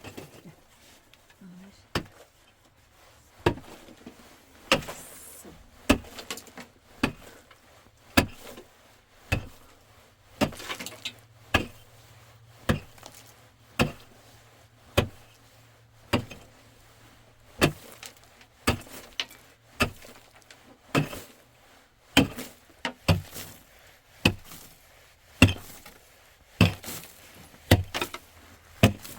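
A long series of sharp knocks, roughly one a second, some struck harder than others, like blows of a tool on wood.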